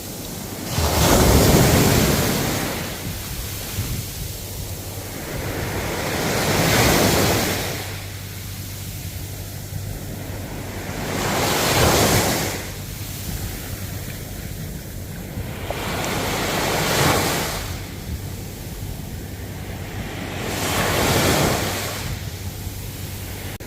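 Ocean waves breaking on the shore in a slow rhythm, swelling and washing back about every five seconds.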